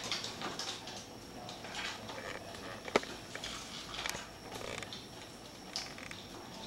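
Pet birds making short scattered calls and scratchy sounds, with one sharp click about three seconds in.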